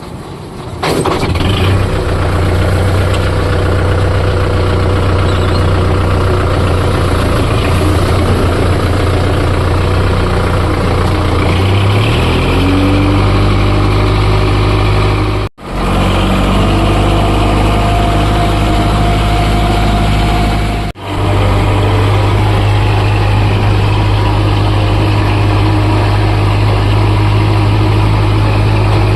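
Tractor diesel engine starting about a second in, then running steadily, its pitch rising briefly near the middle. The sound cuts out abruptly twice for a split second.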